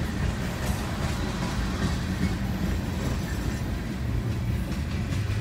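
CSX freight train's open-top hopper and gondola cars rolling past a grade crossing: a steady rumble of steel wheels on rail with faint clicks, heard from inside a car.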